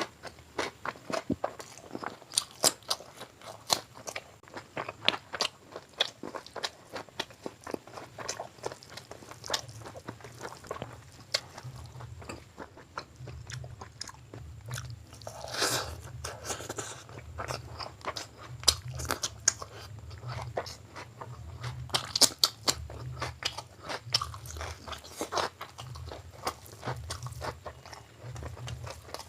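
Close-up eating sounds: irregular wet chewing and crunching, with many sharp little clicks and smacks of mouth and teeth as chicken gizzard curry and biryani are eaten. A low steady hum sits underneath through the second half.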